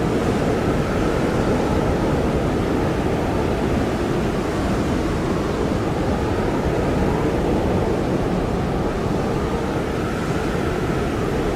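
Blizzard wind blowing hard and steadily, a deep low rush with a faint howling tone that wavers slowly.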